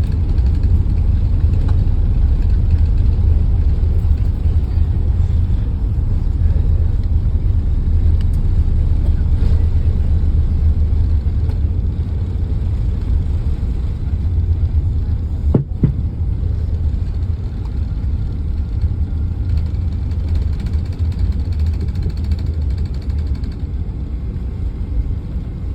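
Steady low rumble of a vehicle in motion, with a single sharp click past the middle, after which the rumble eases slightly.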